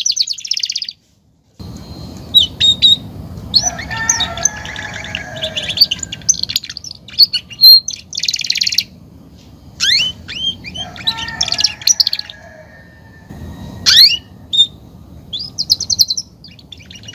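Belgian canary singing in bursts of rapid trills and quick rising whistled notes, with short pauses between phrases. The song cuts out briefly about a second in.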